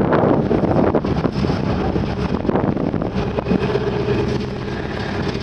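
Rescue icebreaker under way: its engines running steadily, with wind buffeting the microphone and a few short knocks.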